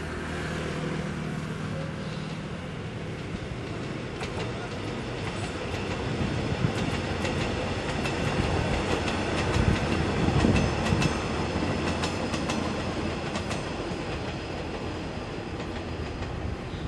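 Taiwan Railways EMU600 electric multiple unit passing, its wheels clicking on the rails in a rapid run of clicks. The rumble builds as the cars go by, is loudest about ten seconds in, then fades as the train moves away.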